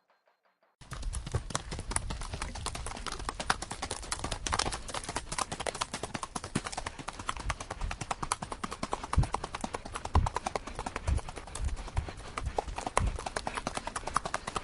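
Horse hooves clip-clopping, starting about a second in, with a dense patter of clicks and heavier thuds about once a second.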